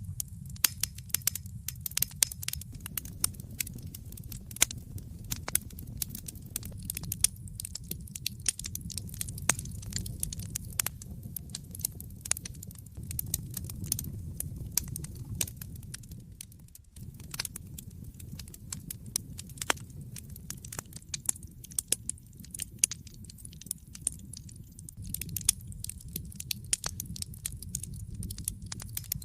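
Wood fire burning in a fireplace, crackling with many irregular sharp snaps and pops over a low steady rumble of the flames.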